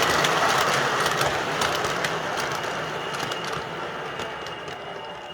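MTH R1 O-gauge model subway train running along the track, its wheels clicking irregularly over the rail joints, steadily growing quieter.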